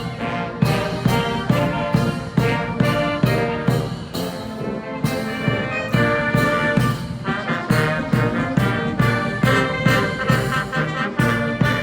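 Massed military band playing a march, brass leading, over a steady beat of about two drum strokes a second.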